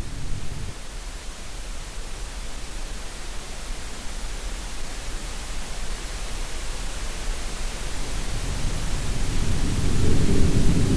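Steady green noise hiss mixed with sea sounds: a low surge of the sea fades within the first second and another builds from about eight seconds in.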